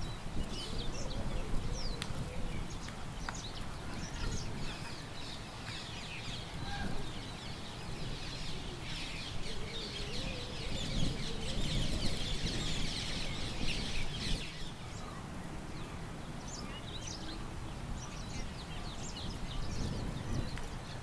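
Small birds chirping and calling, with a dense stretch of chatter in the middle lasting several seconds, over a low steady rumble of breeze.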